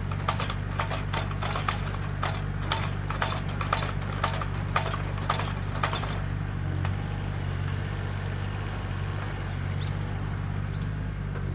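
Electric saw running with a steady low hum. Sharp clicks or knocks come about twice a second through the first half, then stop while the hum carries on.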